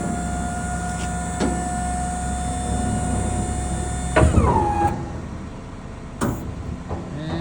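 Box truck lift gate's electric hydraulic pump motor running with a steady whine. About four seconds in it shuts off and spins down with a falling pitch. A sharp clunk follows, and the motor starts again near the end as the gate is worked through its travel.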